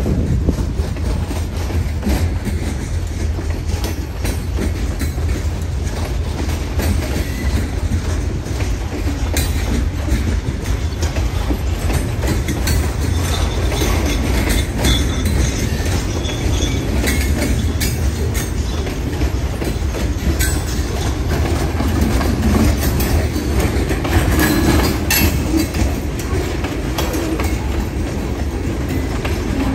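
Freight train hopper cars rolling past close by: a steady low rumble of the wheels on the rails, with sharp clicks as the wheels pass over the rail joints.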